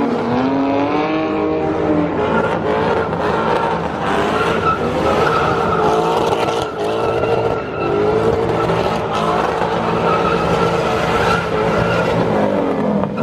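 A car engine held at high revs with tyres squealing and skidding in a burnout, loud and unbroken, the engine note wavering up and down.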